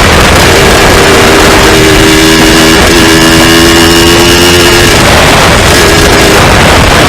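Small two-stroke dirt bike engine running under way at fairly steady revs, its pitch dipping briefly about three seconds in and fading back after about five seconds, over a loud rushing noise.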